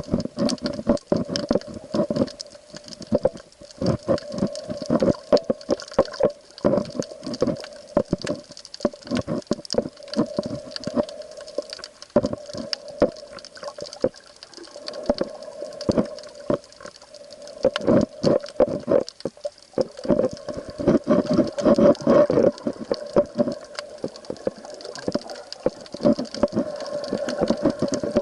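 Underwater sound of the sea: a dense, irregular crackle of sharp clicks over a steady low hum.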